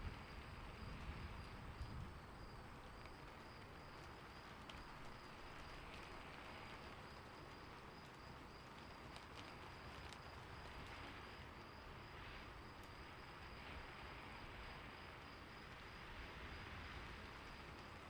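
Faint crickets chirping in a steady, evenly pulsed high trill over a soft background hiss, with a few faint clicks.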